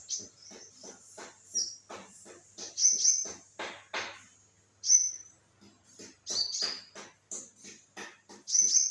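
A sunbird (kolibri ninja) singing vigorously: quick runs of short, sharp, high chirps and twitters, broken by brief pauses.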